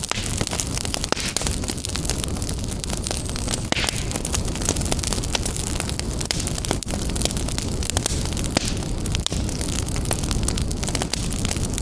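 Wood fire crackling, with frequent small pops and snaps over a steady low rush of burning.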